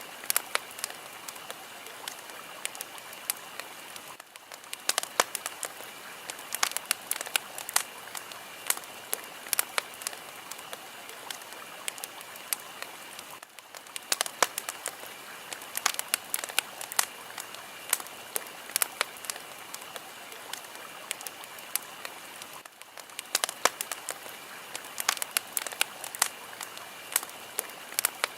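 Fire crackling and popping: a steady hiss dotted with frequent sharp pops and snaps, with a brief dip in level about every nine seconds.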